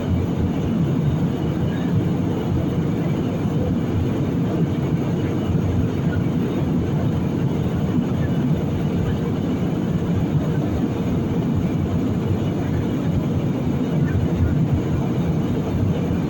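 Steady low rumble of an airliner cabin in flight, the engine and airflow noise heard from inside the cabin during the approach to landing.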